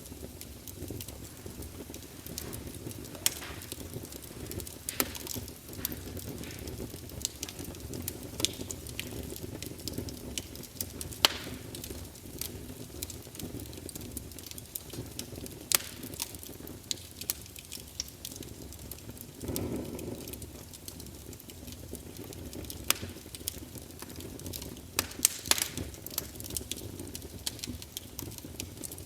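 Wood campfire burning: irregular sharp crackles and pops scattered over a steady low rush of flame, with a short swell of louder burning about two-thirds of the way through.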